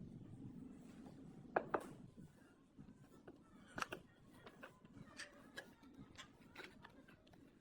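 Scattered light clicks and knocks of small tools and parts being handled, the two loudest close together about a second and a half in.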